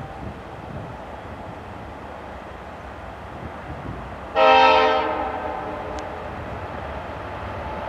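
GE C36-7i diesel locomotive sounding one short horn blast about four and a half seconds in, which fades with an echo, over the steady rumble of the train. The rumble grows louder toward the end as the locomotive comes closer.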